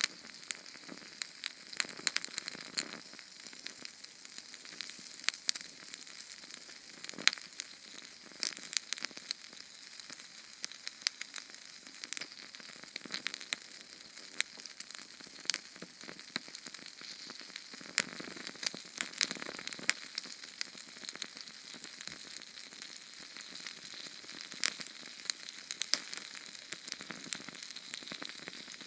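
A small Sterno flame burning, with a steady hiss and many irregular sharp crackles and pops.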